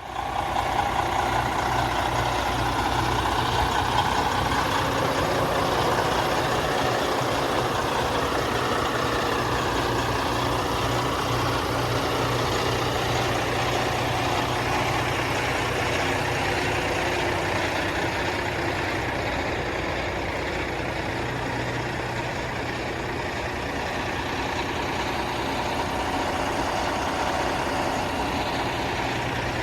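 Heavy diesel truck engine, a Detroit DD15, idling steadily.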